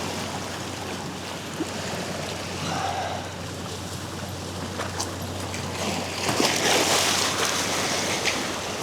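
Surf washing against a rock jetty, with a louder rush of splashing water from about six to eight seconds in.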